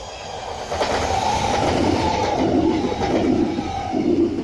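Trenitalia ALe 501/502 Minuetto electric multiple unit passing close by, its wheels running loud on the rails with a whine in the sound. The noise builds about a second in and drops off sharply at the end as the train clears.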